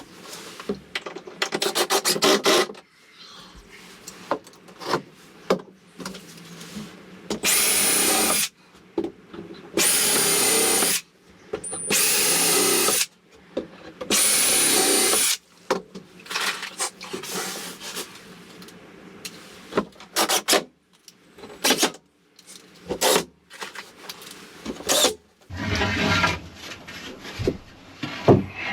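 Cordless drill driving screws into wood in four bursts of about a second each, with knocks and clatter of boards and handling between them.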